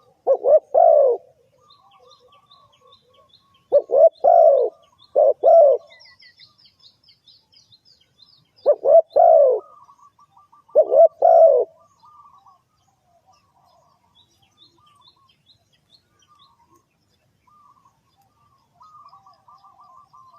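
Spotted dove cooing in five loud, deep coo phrases over the first twelve seconds. Faint chirps and trills of smaller birds run behind and continue after the cooing stops.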